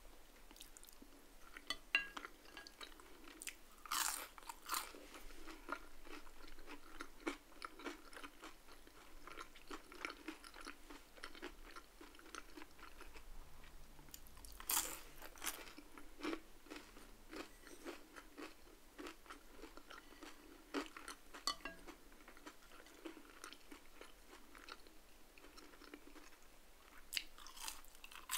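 Close-miked chewing and crunching of crispy fried food, crinkle-cut fries and crispy salmon skin, with a few louder crunchy bites standing out over steady small crackles of chewing.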